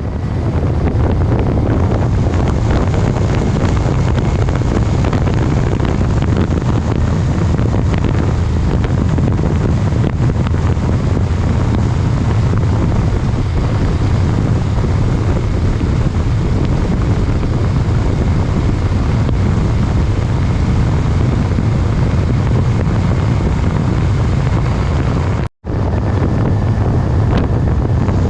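A vehicle engine runs steadily under heavy wind buffeting on the microphone. The sound drops out briefly near the end, then resumes.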